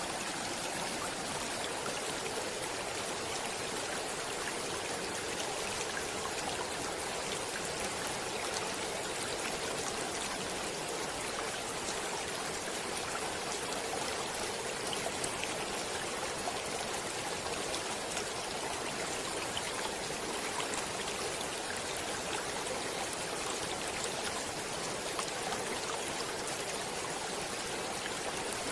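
Stream water flowing and trickling steadily, a continuous rushing with many small splashes and drips.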